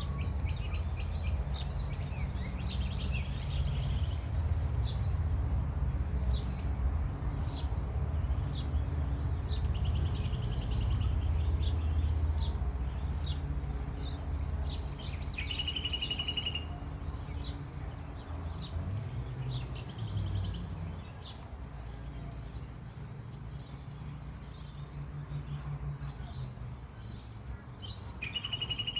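Garden birds calling: short trills repeated several times and scattered chirps, over a low rumble that eases off about halfway through.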